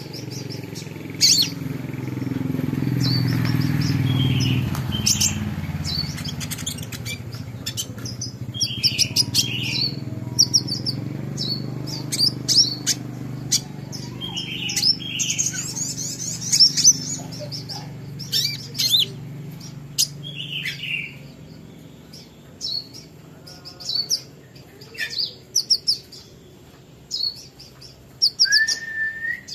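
A small songbird chirping: many sharp, high-pitched chirps and short twittering runs, coming in irregular bursts. A low rumble swells over the first few seconds and fades by about six seconds in.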